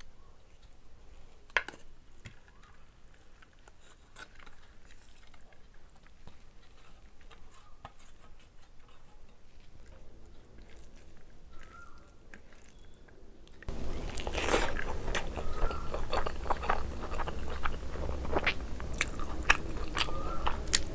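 Close-miked eating of biryani: chewing and biting with wet mouth clicks and smacks. It is faint and sparse at first, then much louder and denser from about two-thirds of the way through.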